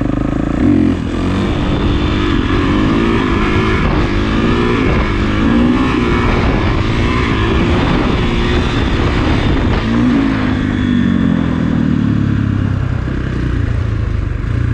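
Kawasaki KX450 dirt bike's single-cylinder four-stroke engine revving hard, its pitch climbing and falling again and again as the throttle is worked during wheelies, with a strong rise about ten seconds in.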